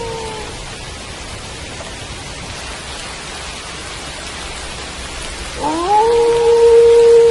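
Steady rain with a wolf howling: one howl falls in pitch and trails off at the start, then about five and a half seconds in a new howl rises and holds a steady note.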